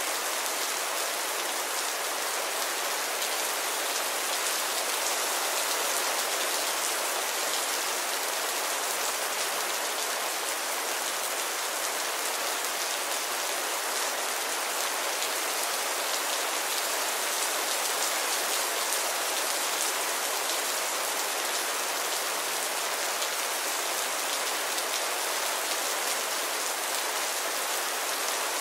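Heavy rain falling steadily: an even, unbroken hiss of countless drops, with no thunder.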